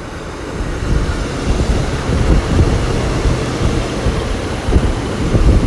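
A Class 150 Sprinter diesel multiple unit, coupled to a Class 143 Pacer, running into the station: a steady, loud rumble of diesel engines and wheels on the rails that swells slightly as the train comes alongside.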